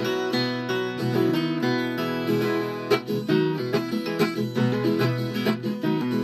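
Viola caipira, the Brazilian ten-string folk guitar, playing an instrumental passage of quick plucked and strummed notes.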